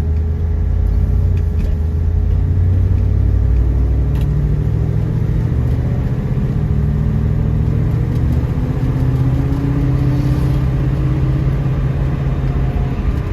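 1972 Ford Mustang Mach 1's V8 engine and exhaust heard from inside the moving car, the engine note climbing slowly as the car gathers speed.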